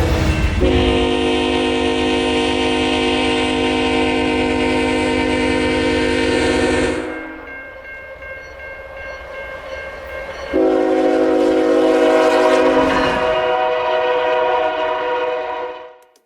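Diesel locomotive's multi-chime air horn sounding two long blasts a few seconds apart, the first over the low rumble of the passing train; the second blast cuts off abruptly near the end.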